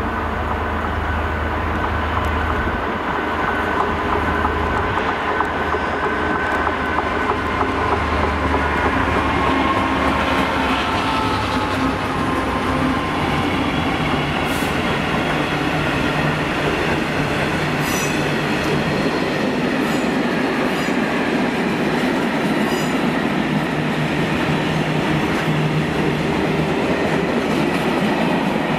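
A Class 66 diesel freight locomotive's engine running as it passes, giving way to the steady rumble of its long train of covered freight wagons rolling through. Wheels squeal in the first few seconds, and there are a few sharp clicks from the wagons' wheels near the middle.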